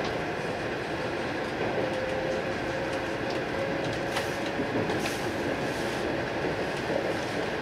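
Steady running noise of an E4 series Max Shinkansen, heard inside the upper-deck cabin of a motor car. A faint steady whine rises above the noise for a few seconds in the middle, and a few light clicks come through.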